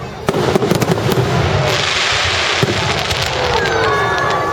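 Fireworks going off: a steady crackle of sharp pops, a dense hiss about two seconds in, and whistles gliding in pitch near the end.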